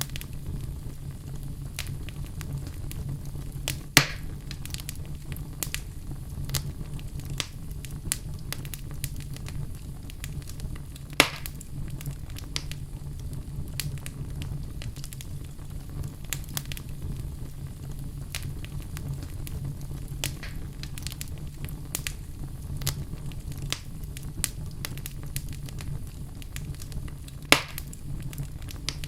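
Wood fire burning in a fireplace: a steady low roar with frequent small crackles, and three louder pops spread through it.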